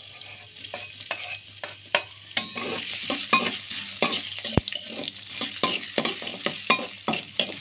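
Chopped ginger sizzling in a little hot oil in a wok while a spatula stirs it, with many sharp clicks and scrapes of the spatula against the pan. The stirring gets busier about two and a half seconds in, and there is one dull knock a little past the middle.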